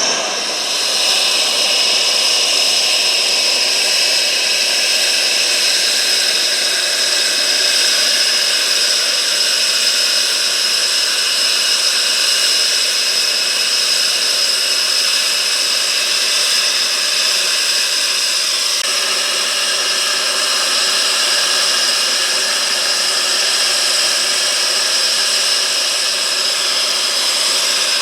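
Jet aircraft engine running steadily with a loud, constant high whine over a hiss of exhaust noise.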